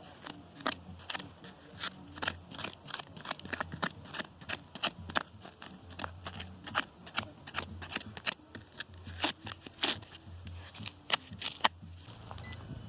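Rapid, irregular sharp clicks and crunches of a small tool and hands working through gravelly soil after buried iron scraps, three or four a second for about eleven seconds, then stopping.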